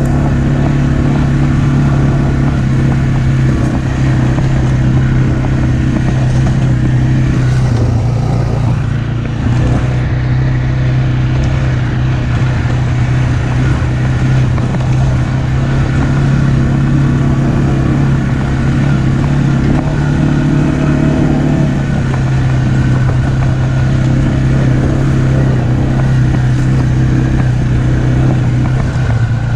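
ATV engine running steadily at an even, unchanging pitch.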